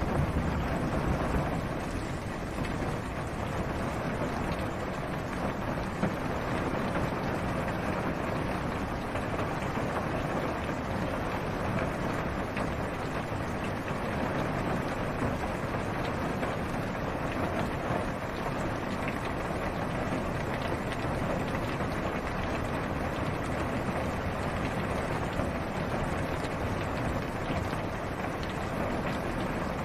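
Steady rain falling on a car's roof and windows, heard from inside the cabin as a dense, even hiss with a low rumble under it.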